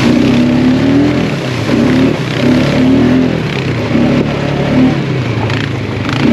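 Quad bike (ATV) engine revving up and easing off again and again as it is ridden, the pitch climbing and dropping roughly once a second.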